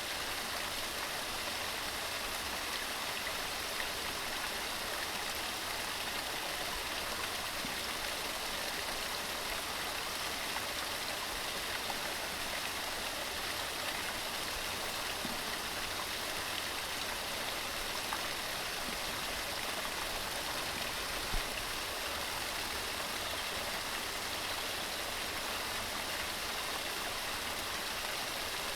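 Waterfall tumbling over rocks: a steady, even rush of falling water.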